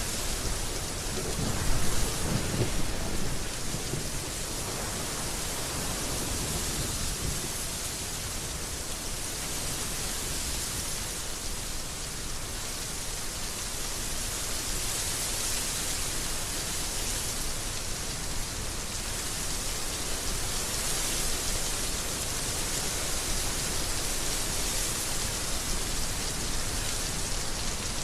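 Heavy rain falling steadily, a dense even hiss, with a low rumble of thunder about two seconds in that dies away.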